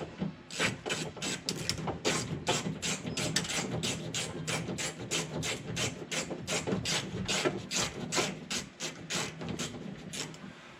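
A ratcheting hand tool driving a door-handle screw, its pawl clicking steadily about four times a second.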